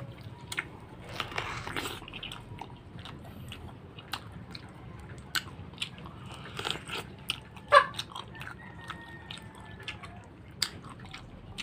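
Close-up biting and chewing of tough, unripe soursop flesh, with many scattered sharp mouth clicks. The loudest click comes about two-thirds of the way through.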